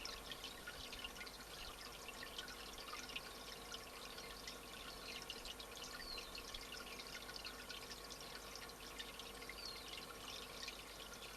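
Running water trickling steadily, with many short, high chirps of small birds scattered through it.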